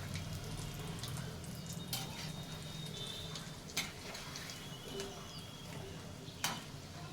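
A few sharp kitchen clicks and knocks, three of them clearly, over a faint steady background hum.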